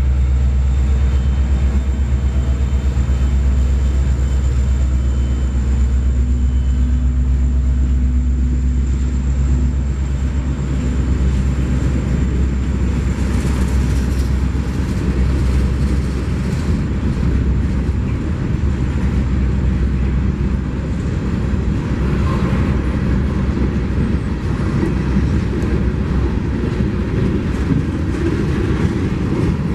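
Train passing close by: a diesel locomotive's deep, steady engine rumble, then from about twelve seconds in the noisier rumble and clatter of railcars rolling past on the rails.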